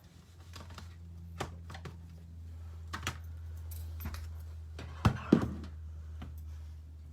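A few light knocks and taps of stamping supplies being handled and set down on a craft table, the loudest two close together about five seconds in, over a steady low hum.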